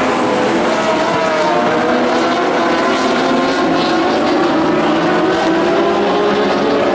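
Dwarf race cars' motorcycle engines running hard as several cars circle the track, their pitches rising and falling as they accelerate and lift.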